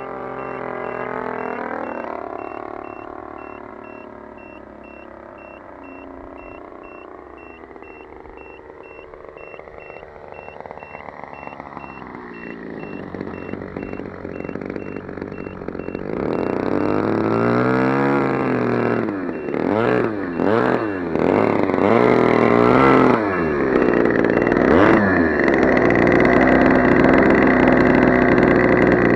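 RCGF 20cc single-cylinder two-stroke gasoline engine of a model airplane. Its pitch slides down and fades at first, then it grows louder about halfway through, with the pitch rising and falling several times, and ends in a steady high-pitched run.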